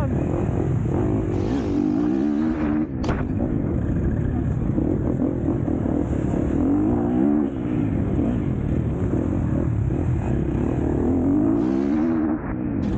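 KTM SX-F four-stroke motocross bike engine running hard, its pitch rising and falling repeatedly as the throttle is worked, with brief dips about three seconds in and near the end.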